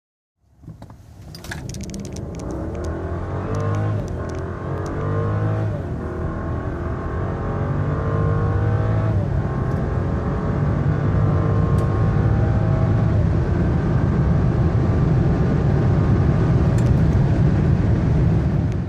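BMW F01 7 Series accelerating hard from low speed, the engine note climbing through the gears with about four upshifts where the pitch drops back, growing louder throughout.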